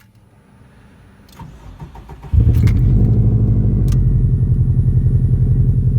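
Cold start of a 2004 Subaru WRX's turbocharged EJ205 flat-four: it cranks and catches a little over two seconds in, then settles into a loud, steady, evenly pulsing fast idle.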